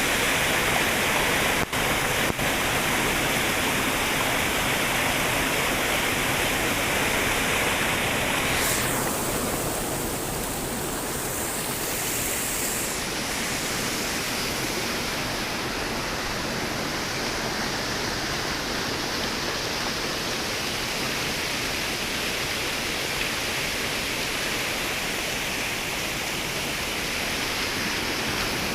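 Flowing river water rushing steadily. It briefly cuts out twice about two seconds in, then goes a little softer and changes in character about nine seconds in.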